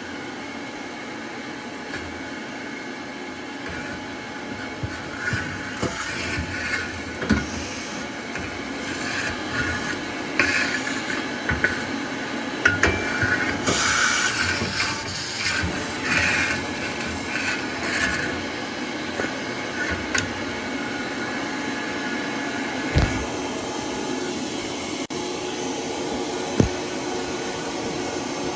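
Soot vacuum running steadily while its flat nozzle scrapes and rattles inside the boiler, drawing out soot, with a few sharp knocks of the nozzle against metal.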